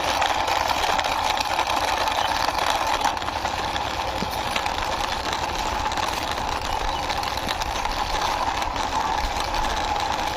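A small engine running steadily at idle, an even, fast-pulsing hum with no change in speed.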